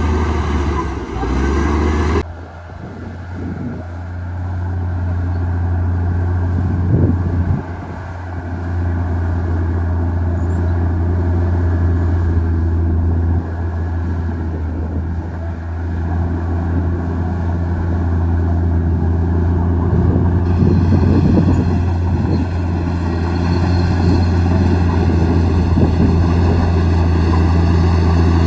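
Komatsu D58E bulldozer's diesel engine running with a deep, steady hum, dipping briefly twice early on and rising again as it works.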